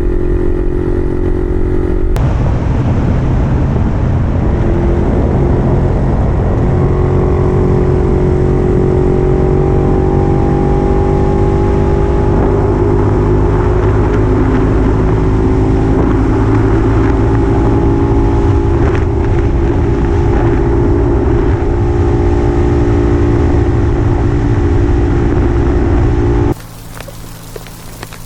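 Puch 250 TF's two-stroke single-cylinder engine running steadily under way, its pitch holding fairly even. The sound cuts suddenly to a much quieter background near the end.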